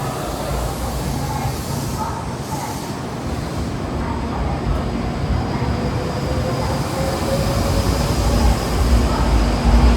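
Shinkansen bullet train running along the station platform: a steady rail rumble that grows louder toward the end, with a faint motor whine rising slowly in pitch midway.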